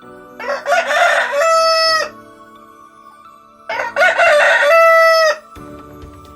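Rooster crowing twice, each crow about a second and a half long and ending in a held note.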